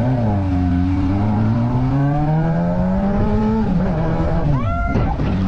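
Motorcycle engine accelerating, its pitch climbing steadily for about three and a half seconds, dropping as it shifts up, then rising again quickly near the end.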